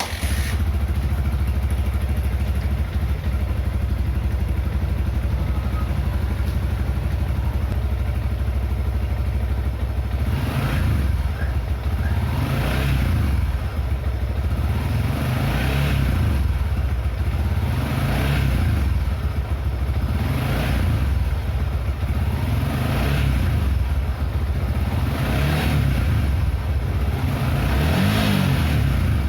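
Yamaha Vixion's 150 cc single-cylinder four-stroke engine running at idle while warming up, then blipped with repeated throttle revs about every two to three seconds from about ten seconds in.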